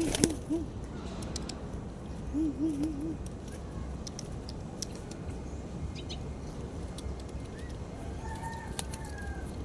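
Domestic pigeon cooing: a quick run of three low, rolling notes at the start and four more about two and a half seconds in. A fainter, higher drawn-out bird call comes near the end, over a steady low background hum.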